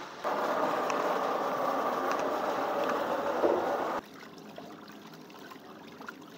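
A steady mechanical running noise that starts abruptly and cuts off sharply about four seconds in, followed by a quieter background.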